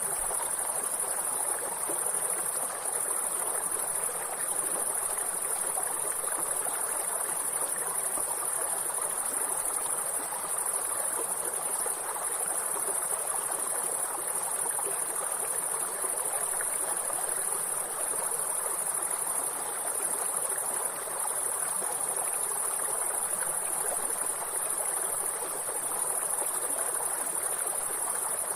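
A steady high-pitched chorus of insects such as crickets over the even rushing of a river.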